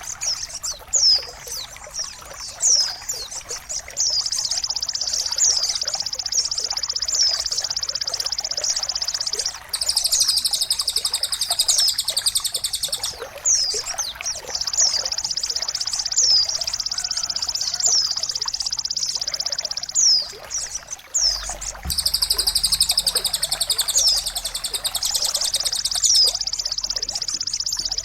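Songbird tutoring (masteran) recording: sharp, high, falling whistled notes about once a second over a continuous high-pitched rushing sound like trickling water.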